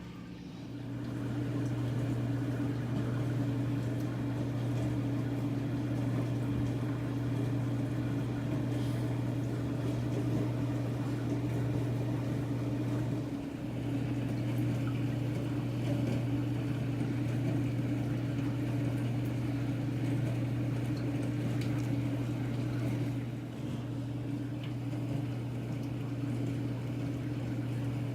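Aquarium filter running: a steady low hum with water moving. The hum dips briefly twice.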